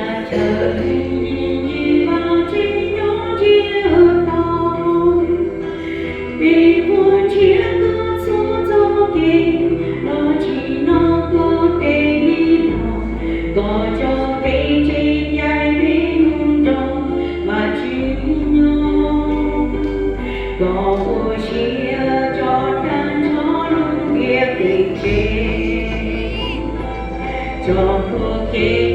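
A church congregation singing a hymn together as a choir, over low bass notes that are held for a few seconds each and then change.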